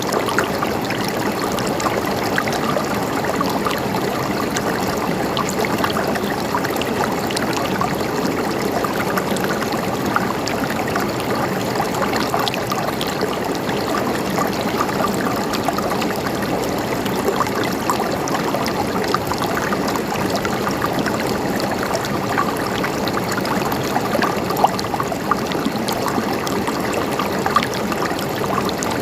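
A shallow stream gurgling and trickling steadily, with many small splashes over the water's rush.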